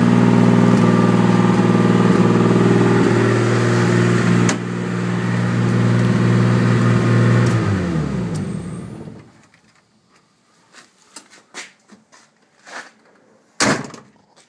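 Nissan RB25DET turbocharged inline-six idling steadily on the stock ECU, then shut off about eight seconds in, its speed falling away as it stops. Afterwards a few faint clicks and one louder knock near the end.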